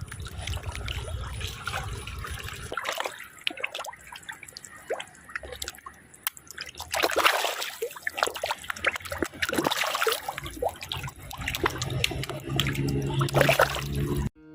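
Water trickling and splashing, irregular and continuous, at a fish pond.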